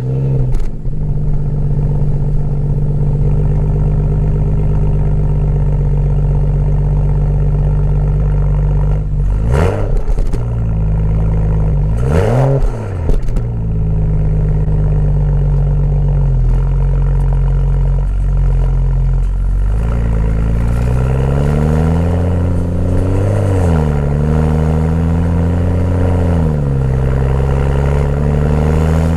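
BMW M235i's turbocharged 3.0-litre inline-six exhaust idling steadily, blipped sharply twice around ten and twelve seconds in, then revved up and down more slowly several times in the last third.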